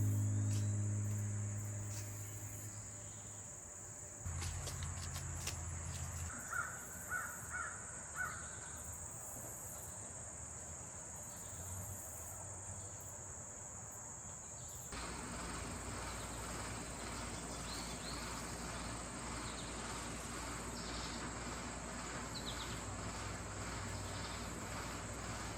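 Summer outdoor ambience: insects keep up a steady high-pitched drone while a crow caws four times a few seconds in. Background music fades out over the first few seconds.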